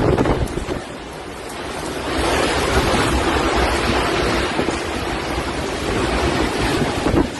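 Strong storm wind rushing and buffeting the microphone, a dense noise that swells about two seconds in and stays loud.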